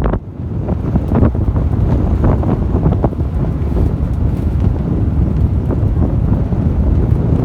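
Heavy wind buffeting the microphone, a loud low rumble with a few scattered knocks, as when riding in an open tour vehicle.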